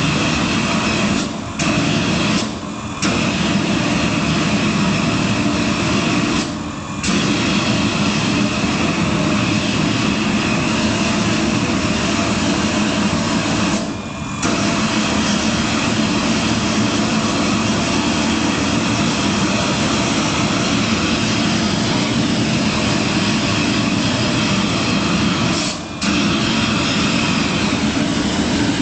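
Scania truck engine running loud through its exhaust, a steady heavy drone that drops away briefly five times, at about one and a half, three, seven, fourteen and twenty-six seconds.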